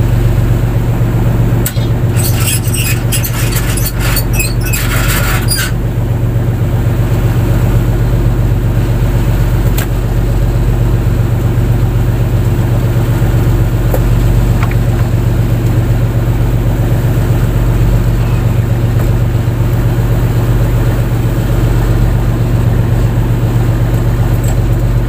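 Fishing boat's engine running steadily at a constant speed, a loud low drone. About two seconds in, a few seconds of sharp clicking or rattling sound over it.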